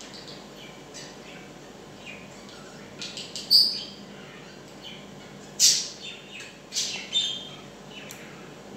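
Bird chirping in short high calls, a few louder chirps in the second half, over a faint steady hum.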